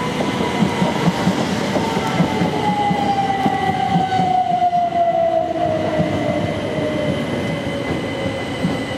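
Electric multiple-unit trains running on the lines, with wheels clattering over the rails under a motor whine that falls steadily in pitch.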